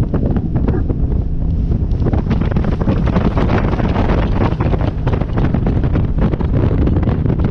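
Heavy wind buffeting the microphone aboard a motorboat under way, over a steady drone of the boat's engine and rushing water.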